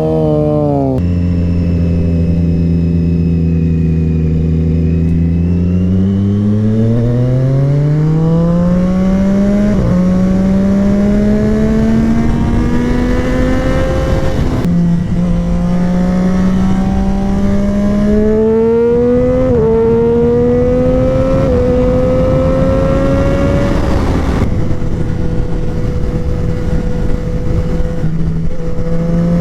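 Sport motorcycle engine: after a brief drop in revs it holds a low steady note, then accelerates hard through several upshifts, each a quick dip in pitch before it climbs again. Near the end it settles into a steady cruise.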